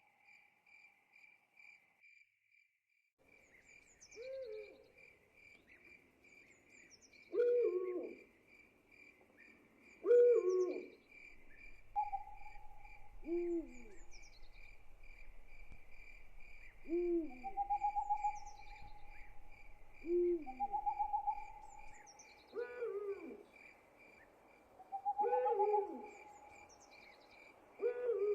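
An owl hooting repeatedly, short falling hoots about every three seconds, over a steady fast-pulsing chorus of crickets. A held higher tone also sounds at the start and comes back several times in the second half.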